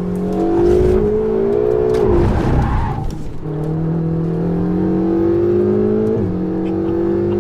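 Ferrari 488 GTB's twin-turbo V8 through a Capristo exhaust, heard from on board as the car accelerates. The engine pitch climbs steadily and drops sharply with an upshift about two seconds in and again about six seconds in.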